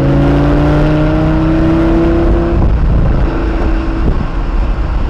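Lamborghini Gallardo V10 engine pulling under acceleration, its note climbing steadily for about two and a half seconds before dropping away. Road and wind rumble run underneath.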